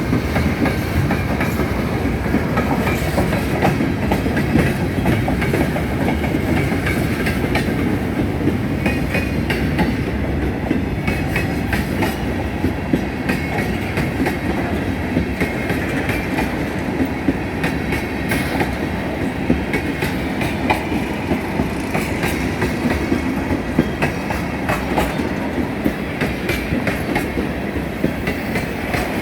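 A train rolling steadily past with a continuous rumble, its wheels clicking rapidly over the rail joints.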